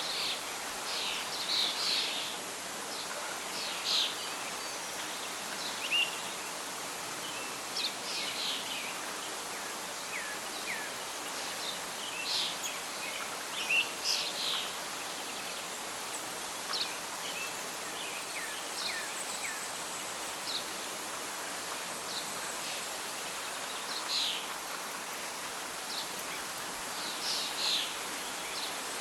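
Birds singing and chirping in short calls scattered throughout, over a steady hiss of wind and rustling leaves.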